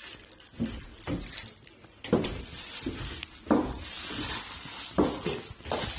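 Shiba Inu making short, breathy vocal noises, about six in a row spread over several seconds.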